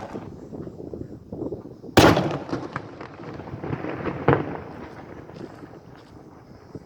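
Daytime fireworks battery going off: a loud bang about two seconds in and another a little after four seconds, with smaller pops and crackles between and echoes dying away after each.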